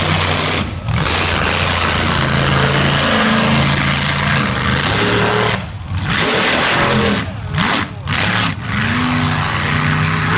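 Mega truck's engine revving hard on a mud-racing pass, its pitch rising and falling, with several brief dips in the sound.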